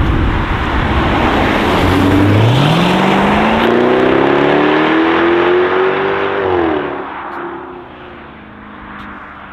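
Jaguar F-Type's 5.0-litre supercharged V8 exhaust accelerating hard: a deep rumble, then the engine note climbs steadily for about four seconds. About six and a half seconds in the pitch drops sharply and the sound fades as the car pulls away.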